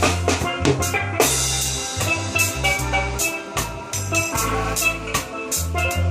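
Steel drums (steelpans) playing a melody live over a steady drum beat and deep bass notes.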